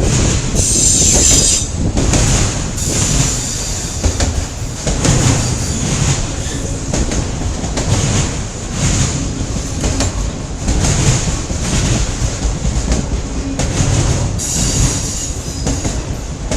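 Freight train cars rolling past close by: a steady heavy rumble with clatter from the wheels over the rails, and brief high-pitched wheel squeals about a second in and again near the end.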